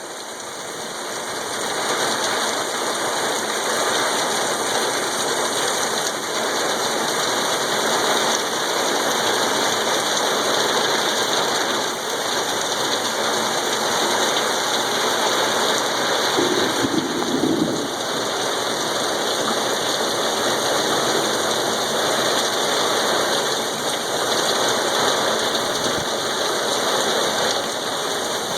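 Steady rain shower pouring down, an even continuous hiss of falling rain.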